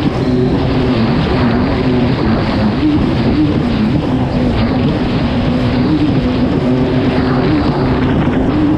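Kawasaki STX-160 jet ski's four-stroke engine running hard at race speed, its pitch wavering up and down a little with the throttle, over a steady rushing noise.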